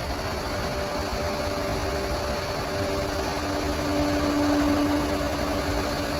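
Bulldozer's diesel engine running steadily, swelling a little about four seconds in.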